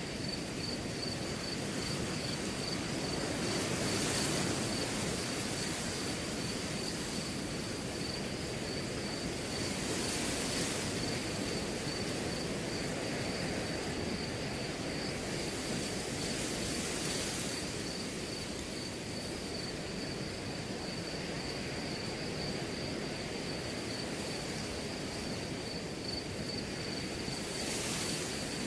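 Wind blowing through a grass field, rising in brief rustling gusts several times. A cricket chirps throughout in a fast, even pulsing trill.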